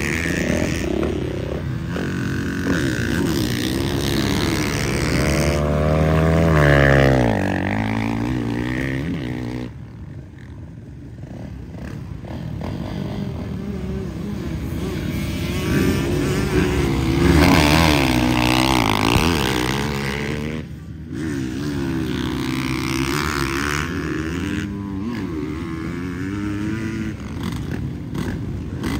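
Motocross bikes running on the track, engines revving up and down with the pitch rising and falling as they accelerate and change gear. The sound drops away suddenly about a third of the way in and again about two-thirds in.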